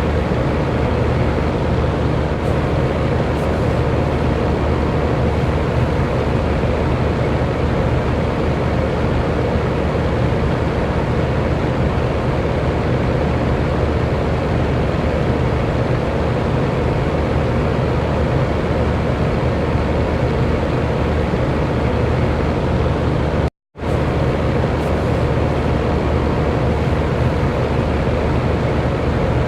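Electric fan running steadily: an even rush of moving air over a low motor hum. The sound cuts out for an instant about 24 seconds in, then resumes unchanged.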